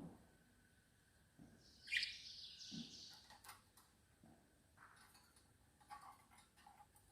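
Small birds chirping: one loud burst of high chirps about two seconds in, followed by scattered fainter chirps.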